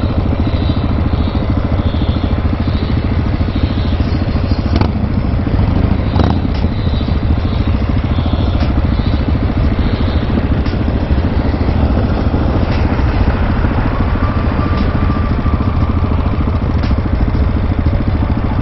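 Husqvarna 701 supermoto's single-cylinder engine running steadily while the bike is ridden at an even pace.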